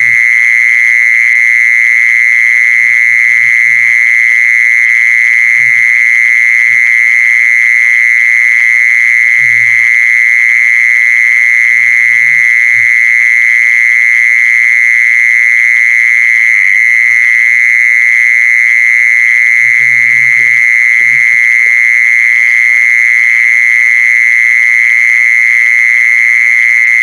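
Continuous high-pitched trill of a singing insect, the Thai 'jee-son', loud and steady without a break.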